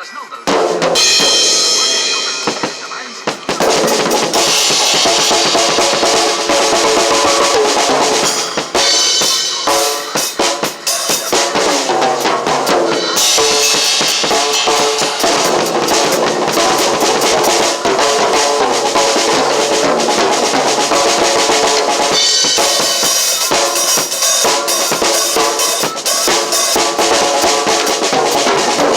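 Drum kit being played in a continuous groove over music with pitched instruments. It eases off briefly in the first few seconds, then the full beat comes back in at about three and a half seconds.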